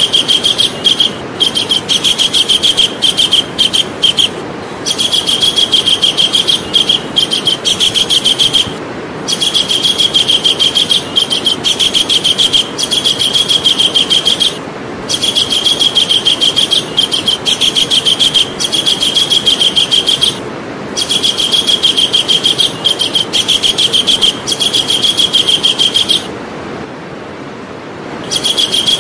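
Javan kingfisher calling: long runs of rapid, high, repeated notes, broken by short pauses and one longer pause near the end, over a steady background hiss.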